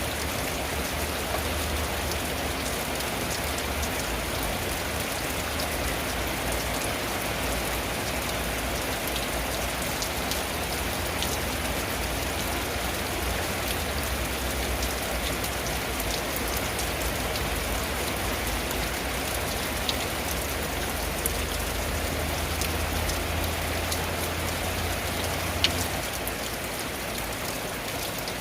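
Steady rain drumming on a tin roof, with a few sharp, louder drop strikes. A low rumble underneath drops away near the end.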